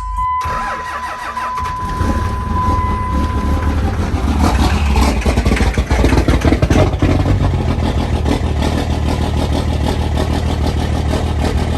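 Dodge Ram 3500's Cummins turbo-diesel engine starting and running, with a steady electronic chime tone from the cab sounding through the first few seconds. The engine is revved a few times, then settles to a steady idle.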